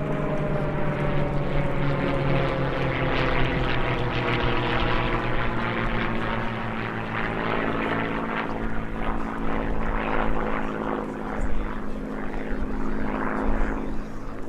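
Piston engines of vintage WWII propeller fighter planes droning in flight, one engine tone sliding lower in pitch over the first few seconds as a plane passes.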